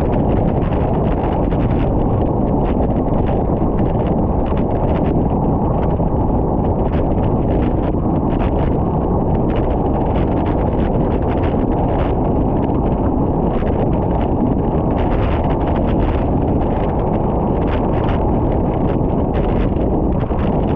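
Heavy, steady wind noise on the microphone from riding a bicycle at speed, with faint scattered ticks over it.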